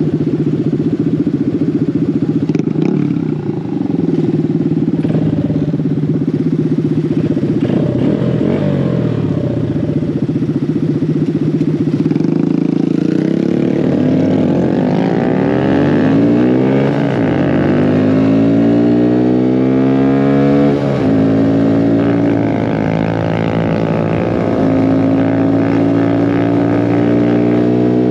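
Mini bike engine running under way, its pitch easing down and then climbing steadily as it speeds up, dropping suddenly partway through and then holding steady.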